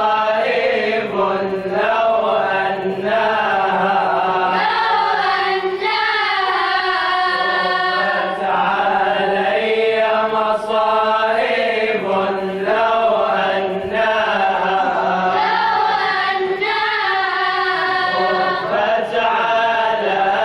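A vocal group chanting an Arabic elegy (nasheed) in unison, the melody rising and falling over a held low note.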